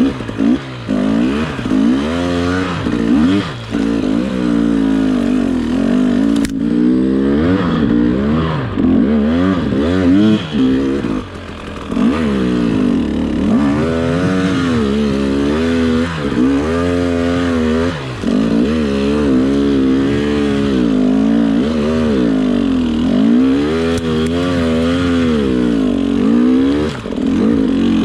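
Dirt bike engine revving up and down again and again, its pitch rising and falling every second or so as the throttle is worked, with a single sharp click about six seconds in.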